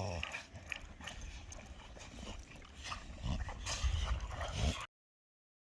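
Excited American Bully dogs vocalising, with scattered short knocks and clicks; the sound cuts off abruptly near the end.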